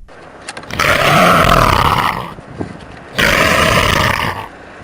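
Leopard giving two long, hoarse roars about a second apart.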